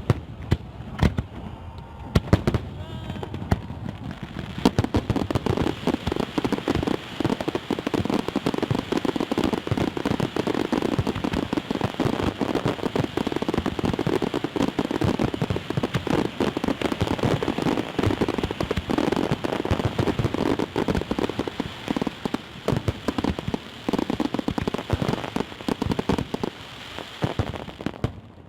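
Fireworks crackling in a dense, rapid run of pops that goes on for over twenty seconds, after a few separate louder bangs at the start.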